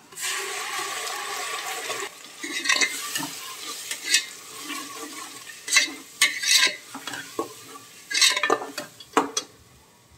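Wet ground masala paste hitting hot mustard oil and fried onions in a pressure cooker, sizzling loudly for about two seconds. Then a metal ladle scrapes and stirs the paste against the pot in irregular strokes, tailing off near the end.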